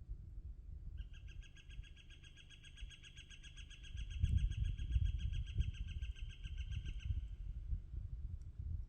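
A long, even, rapidly pulsed animal trill that starts about a second in and runs for about six seconds before fading, over a low rumble that grows louder about four seconds in.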